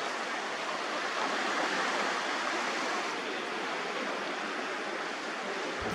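Sea surf: a steady rushing wash of waves.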